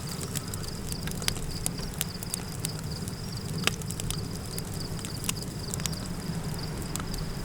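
Campfire crackling, with irregular sharp pops, a few much louder than the rest. Crickets chirp steadily in a high pulsing tone over a low, even rumble.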